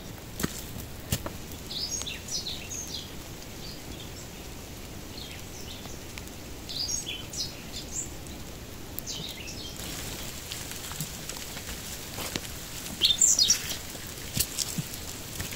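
Small wild birds chirping in short clusters of quick calls several times, the loudest call near the end, over a steady hiss of light rain in the forest, with scattered soft clicks.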